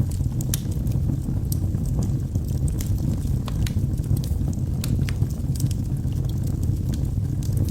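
Log fire burning in a fireplace: a steady low rumble of the flames with frequent sharp crackles and pops scattered irregularly throughout.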